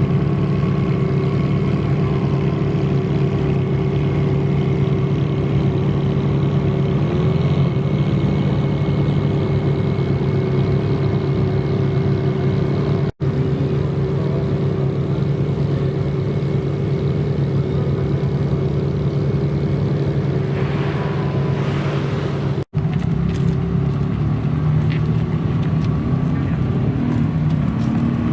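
A car engine idling steadily at a constant pitch, with the sound cutting out for an instant twice.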